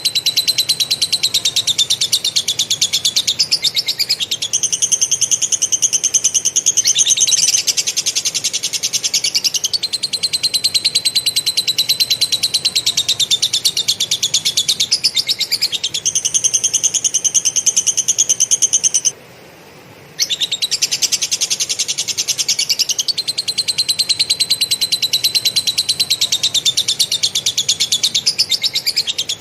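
Cage songbird chattering in long runs of very rapid, rattling notes, its pitch jumping to a new level every few seconds. About two-thirds of the way through it breaks off for about a second.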